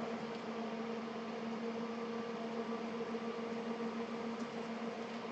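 Small electric fan running steadily: a constant low hum with a second, higher hum tone above it, over an even hiss.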